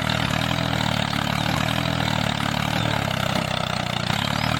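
A DIY mini tractor's small motor running steadily with an even, rapid pulse.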